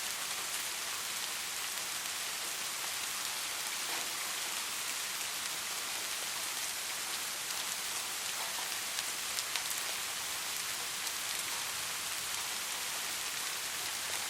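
Steady soft rain, an even hiss with many small drop ticks.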